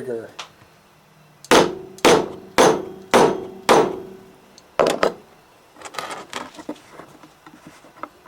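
A hammer striking six times, roughly every half second, each blow ringing briefly, followed by lighter clicks and rattles of small parts being handled.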